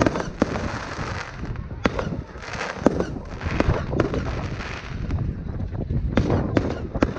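Fireworks display going off: a rapid, continuous run of sharp bangs and crackling, with no pause.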